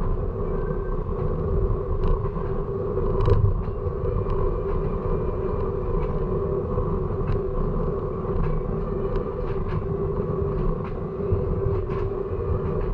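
A train rolling on the rails: a steady rumble with a held hum, overlaid by creaks and frequent short clicks and clanks from the wheels and cars.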